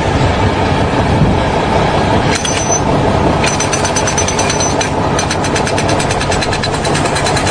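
Heavy construction machinery running loudly. About three and a half seconds in, a fast, even rattle joins it, with a thin high whine over the top.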